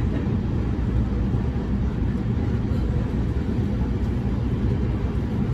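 Running noise inside a JR East E231 series 1000 commuter train at speed: the wheels and bogies on the rails make a steady sound that is mostly low.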